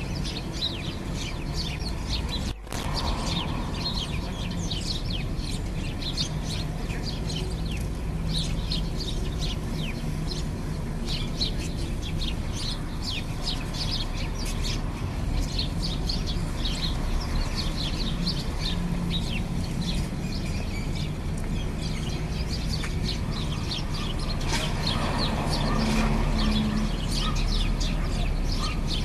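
A flock of sparrows chirping continuously, many quick overlapping chirps, over a steady low background rumble.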